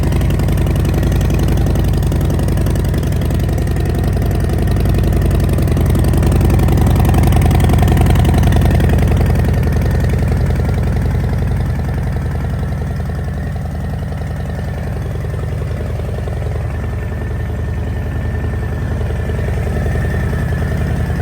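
Harley-Davidson Fat Bob's V-twin idling through Vance & Hines Short Shots exhaust pipes shortly after a cold start, with a steady, loud, deep lumpy pulse. The level eases a little about two thirds of the way through.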